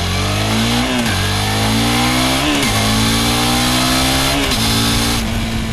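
Suzuki SV650's 645 cc V-twin accelerating hard through the gears. The engine note climbs and drops sharply at three upshifts, about one, two and a half, and four and a half seconds in, then holds a steady pitch near the end.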